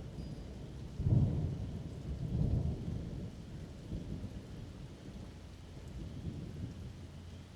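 Thunder rumbling: a low roll breaks in suddenly about a second in, swells again a second or so later, then dies away in softer rolls.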